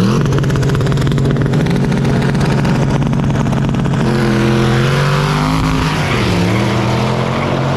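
Car engines running hard at a street race. One engine holds a steady high-revving note, then from about four seconds in several engine notes overlap and shift in pitch.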